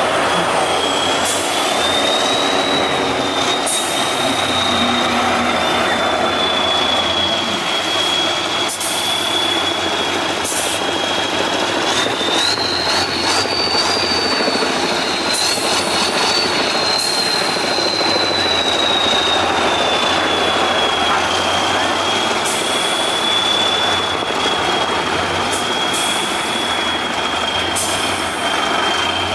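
Off-road trial truck's engine running hard under load, with a high whine that climbs about twelve seconds in and then slowly falls away, and scattered clicks and knocks from the truck.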